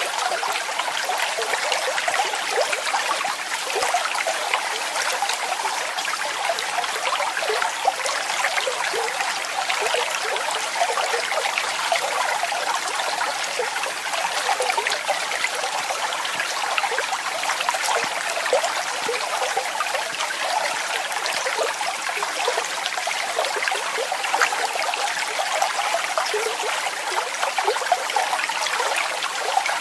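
Small waterfall of running water splashing steadily. It makes an even, bright hiss with lots of little splashes and no deep rumble.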